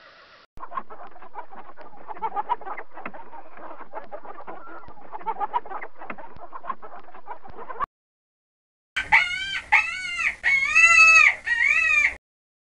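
Hens clucking in a steady, scratchy chatter for about seven seconds. After a short break comes a loud rooster crow in several rising-and-falling syllables, ending shortly before the close.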